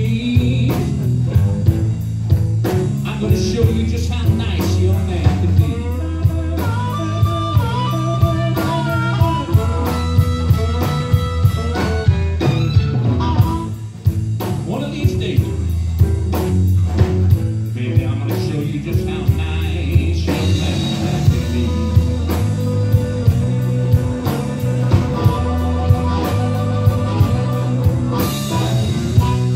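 Live blues band playing an instrumental passage: a lead guitar plays bending melodic lines over bass and a steady drum beat.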